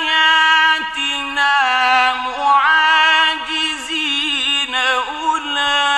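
A man's voice reciting the Quran in the slow, melodic mujawwad style. It holds long sustained notes and breaks into ornamented turns of pitch in the middle, then settles on another long held note near the end.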